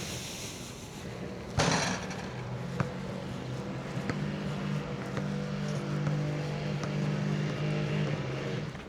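A motor vehicle's engine running with a steady low hum. A short, loud rush of noise comes about a second and a half in, and there are a few faint clicks.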